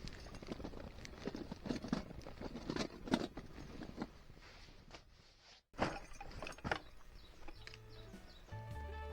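Irregular small clicks, knocks and rattles, broken by a sudden cut about six seconds in. Soft music with low bass notes comes in near the end.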